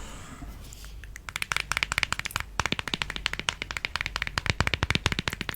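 A rapid, dense run of sharp clicks and taps from small hard objects, starting about a second in and continuing many times a second.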